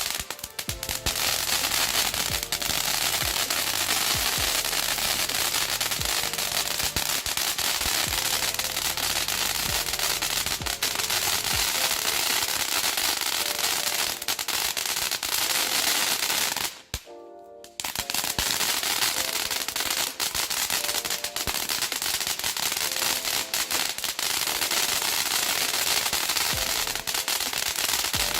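Retro crackle fountain firing: a dense, rapid crackle, ridiculously loud, with a brief break a little over halfway through.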